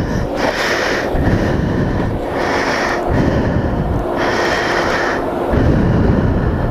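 Heavy breathing of an exerted rider, a breath roughly every second, over the Suzuki DR-Z400S's single-cylinder engine running at low revs.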